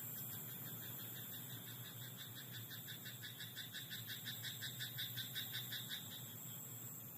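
A frog calling in a rice paddy: a rapid, even train of short croaks, about five a second, that swells louder and then stops about six seconds in.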